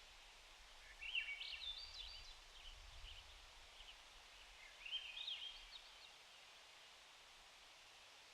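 A songbird sings two short, jumbled warbling phrases, the first about a second in and the second near five seconds, over a faint steady background hiss.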